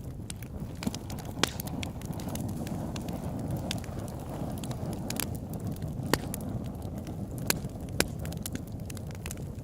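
Campfire crackling: a steady low rumble of burning wood with frequent sharp snaps and a few louder pops.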